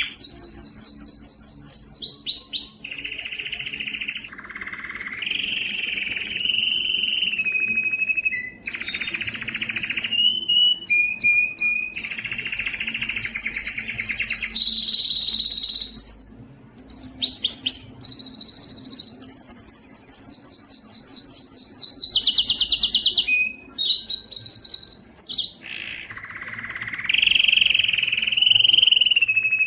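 Domestic canary singing a long continuous song: phrases of rapidly repeated notes alternate with rolling trills and held, whistle-like tones, broken by brief pauses twice.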